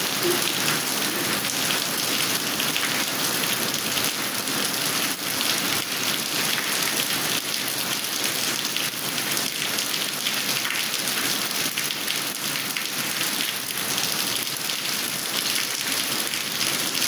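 Steady rain falling and splashing on wet paved ground, an even hiss dense with the patter of drops.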